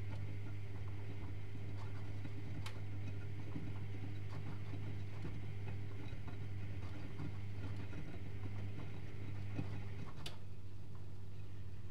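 Privileg Multispar 5110 washing machine running a boil wash: a steady low hum with a few faint ticks and two sharper clicks, about two and a half seconds in and near the end.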